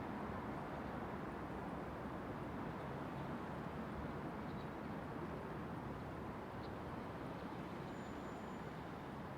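Steady, even rumble of distant city traffic, with a couple of faint short high chirps and a brief thin high tone near the end.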